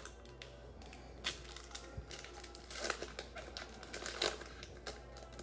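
A trading card pack's wrapper crinkling as it is handled, with a few sharp clicks about one, three and four seconds in.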